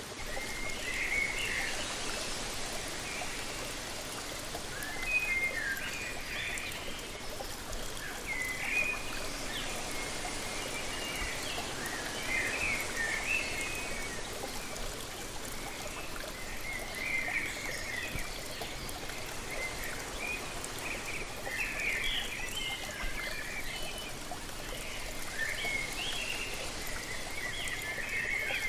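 Waterfall: a steady rush of falling water, with birds singing short chirping phrases over it every couple of seconds.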